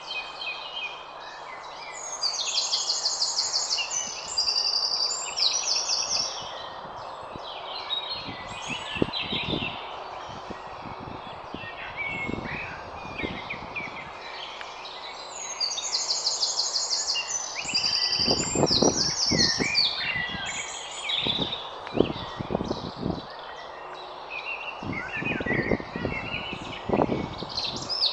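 Garden songbirds singing, with a loud phrase of rapid, buzzy trilled notes heard twice, over a steady background hiss. Low rumbling bumps come and go in the middle and toward the end.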